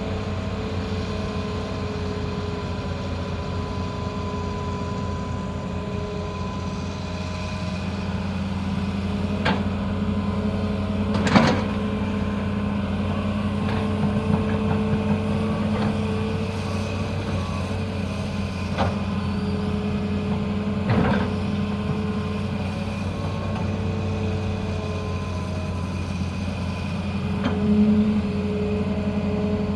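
Excavator's diesel engine running steadily, with a few sharp metallic knocks, the loudest about a third of the way in.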